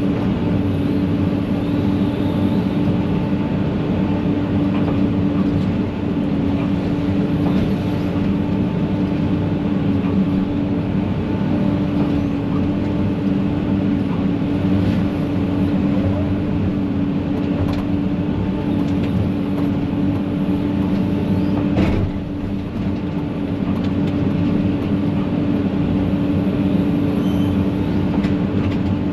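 Large engine of heavy land-clearing equipment running steadily at a constant speed, with one sharp knock about three quarters of the way through.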